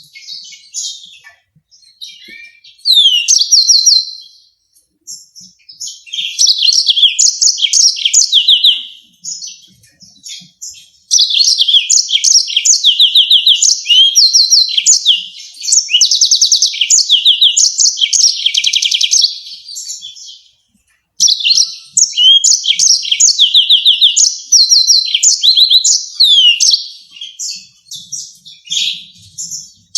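Yellow-fronted canary singing: phrases of fast, high trills and sweeping notes, separated by short pauses, with one long unbroken run of song near the middle.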